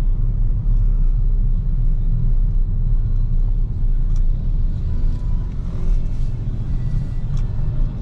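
Steady low road rumble from a BYD Seagull electric hatchback driving in city traffic: tyre and road noise with no engine note, and a couple of faint ticks.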